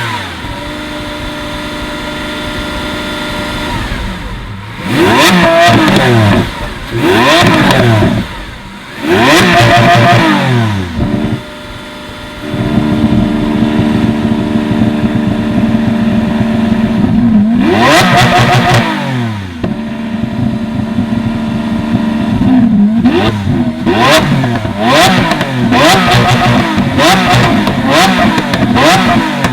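Lamborghini Aventador SV's V12 engine idling and revved again and again. Single revs climb and fall back, some held briefly at the top, and a run of quicker, shorter blips comes in the last several seconds.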